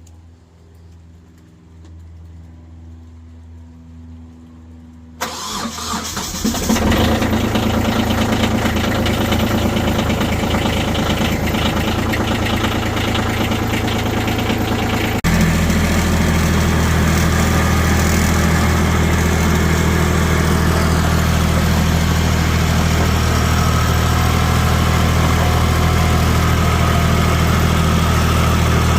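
A vehicle engine starts about five seconds in and then runs steadily. Its level jumps suddenly about fifteen seconds in.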